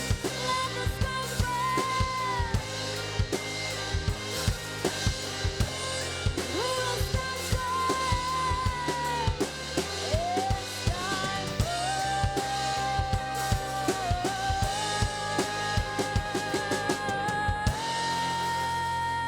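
Live band playing: drum kit with steady kick and snare hits under bass and long held melody notes. About eighteen seconds in the drums stop, leaving a sustained chord.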